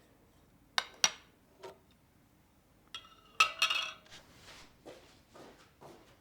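Dishes clinking as they are handled and set down: two sharp clinks about a second in and another soon after, then a louder cluster of ringing clinks past the halfway point, followed by softer knocks.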